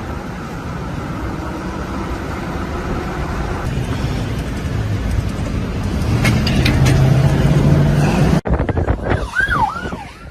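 Strong wind roaring with a low rumble, growing louder, which fits a very strong tornado. It cuts off abruptly, and an emergency vehicle siren follows, sweeping quickly up and down in pitch.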